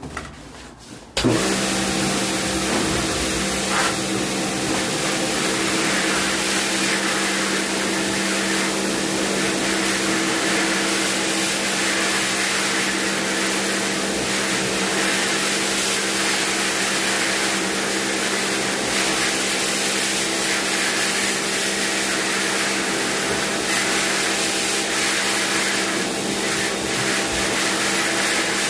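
High-pressure washer running, its motor humming steadily under a loud, even hiss of spray, starting about a second in.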